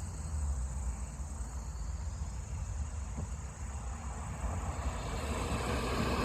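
A steady high-pitched insect drone over a low rumble, with a passing car's noise swelling from about four and a half seconds in.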